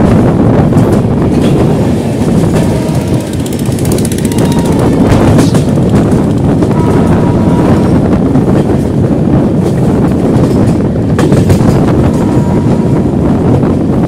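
Loud, steady rush and rumble of a moving express passenger train heard from on board: wheels running on the rails, with scattered short clicks.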